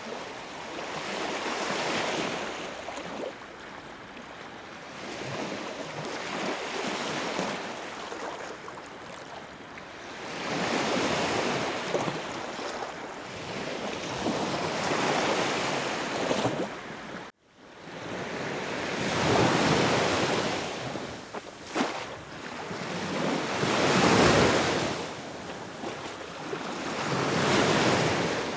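Sea waves washing in and drawing back, the surf swelling and fading every few seconds. A sudden, momentary break in the sound comes about two-thirds of the way through.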